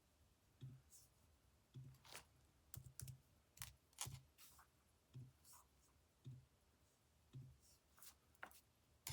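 Faint, irregular button clicks, roughly one or two a second, each with a soft low thud.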